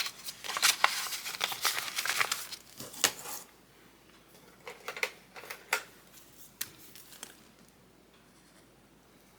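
Paper rustling and scratching as cash envelopes and a paper tracker sheet are handled, busy for the first three seconds or so, then a few scattered rustles and taps before it fades to quiet.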